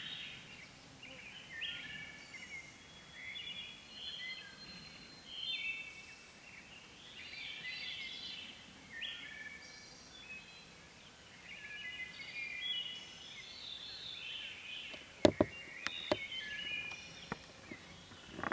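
Several songbirds singing at once in short, overlapping high phrases. A few sharp knocks come about fifteen seconds in.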